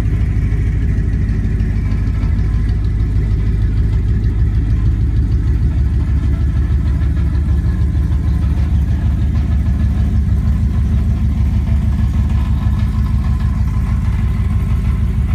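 Twin-turbocharged 1972 Plymouth Valiant's engine running with a steady, even low drone.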